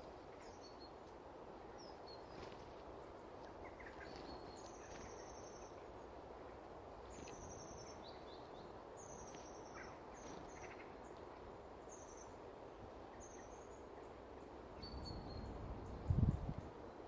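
Small wild birds calling with short, high, thin chirps scattered throughout, over steady background noise; a brief low thump near the end.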